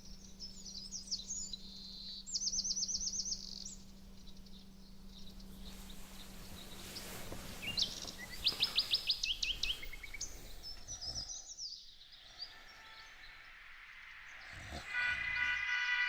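Birdsong from a nature-sounds recording: scattered high chirps and two quick, even trills, with a faint steady hum underneath. Near the end a louder sound with several tones swells up.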